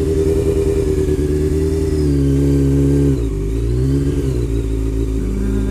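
Honda CBR motorcycle engine running under way. Its note holds steady, drops sharply about three seconds in, then climbs again.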